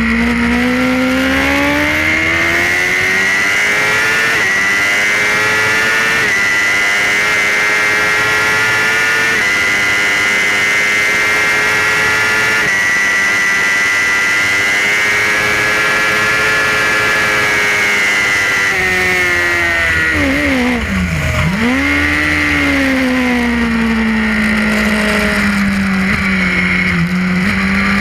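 Suzuki GSX-R racing motorcycle's inline-four engine, heard from on board at racing speed. The revs climb and hold high with small steps at gear changes, then drop sharply about twenty seconds in as it brakes and shifts down, before pulling up again.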